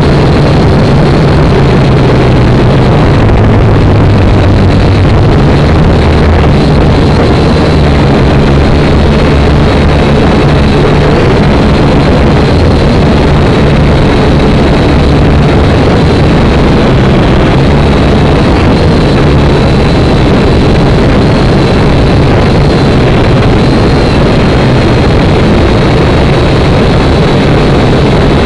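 Syma X5C quadcopter's small electric motors and propellers whirring in flight: a loud, steady buzz with a high whine, its pitch wavering slightly as the throttle changes.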